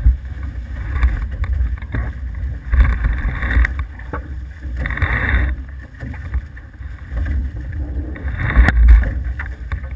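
Wind buffeting the microphone aboard an F18 sailing catamaran under way, a constant low rumble, with three louder surges of rushing water about three, five and nine seconds in.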